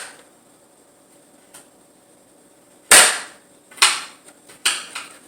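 Kitchen knife chopping down through mushrooms onto a cutting board: a few sharp knocks, the loudest about three seconds in, then three more in quick succession near the end.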